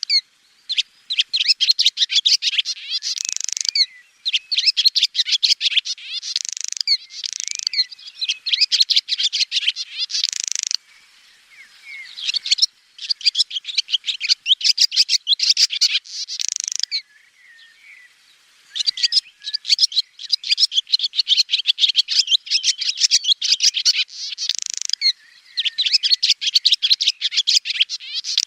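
Swallow song: fast twittering and chattering in long runs of rapid notes, with short pauses about eleven seconds in and again around seventeen seconds.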